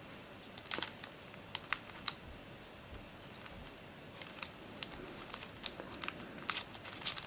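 Light plastic clicks and taps from a Witeden 3x3x9 cuboid puzzle being handled, a few in the first couple of seconds and more of them near the end.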